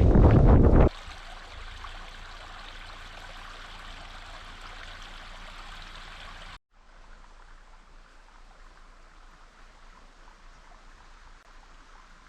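Wind buffeting the microphone for about a second, then a small stream running steadily with an even rushing hiss, dropping to a fainter stream sound after an abrupt break about halfway through.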